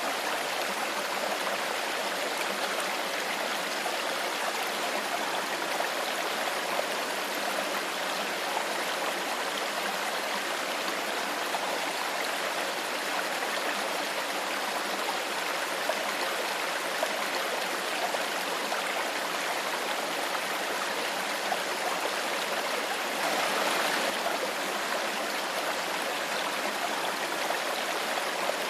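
A shallow stream flowing steadily over rocks, with trickling and gurgling water and a brief louder surge about three-quarters of the way through.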